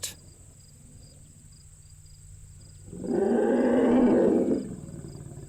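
A lion roars once, a rough call of under two seconds about halfway through, over the steady chirping of crickets.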